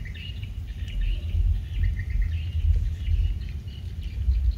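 Small birds chirping in short, repeated calls over a low, uneven rumble.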